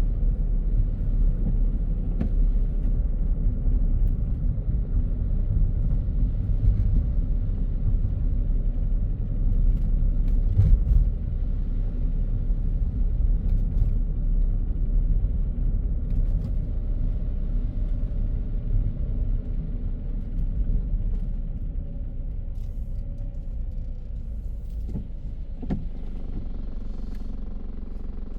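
Car driving along a city road: a steady low rumble of tyres and engine, easing off slightly over the last several seconds.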